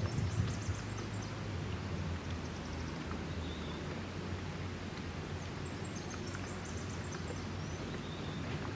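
Outdoor ambience with a steady low hum. A small bird gives quick, high chirping trills twice: just after the start and again around six seconds in. There is a short thump at the very start.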